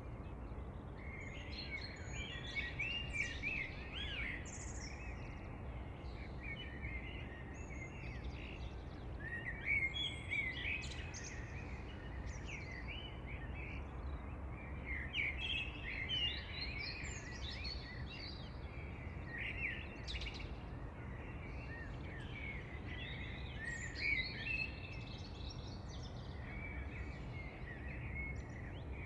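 Several birds chirping and twittering, with bouts of quick high calls coming and going, over a steady low background rumble.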